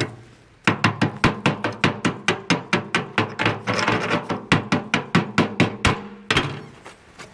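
A hammer striking steel in a fast, even run of about four to five blows a second. The struck steel rings on between the blows. The run stops about six seconds in, and one more blow follows.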